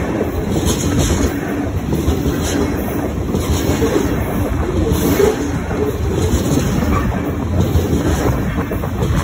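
Freight train tank cars rolling past at close range: a steady rumble of steel wheels on the rails, with occasional light clacks.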